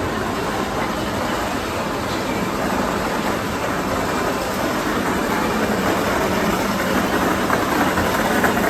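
Shinkansen bullet train running, a steady rushing noise with a faint low hum that grows slightly louder.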